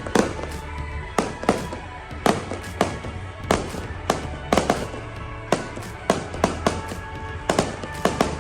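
Fireworks going off in a display: a quick, uneven run of sharp bangs, about two a second, over background music.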